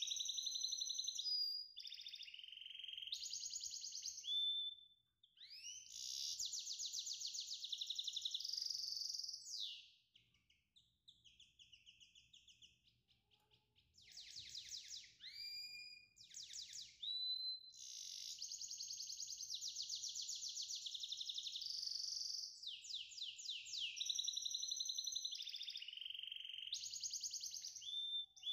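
A songbird singing in high-pitched phrases of fast trills, chirps and whistled glides, with short pauses between phrases.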